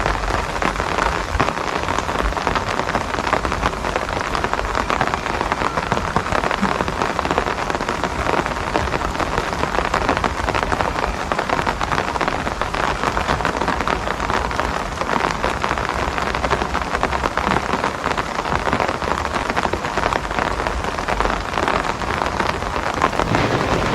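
Steady rain falling and pattering on surfaces, a dense, even hiss of countless drops.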